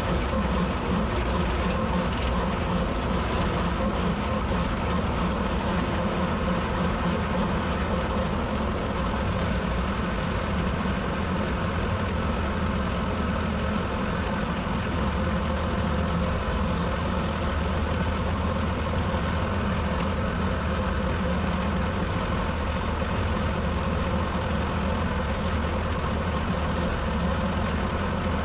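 Tractor engine running steadily while a bush hog rotary cutter mows, an even, low drone with no break.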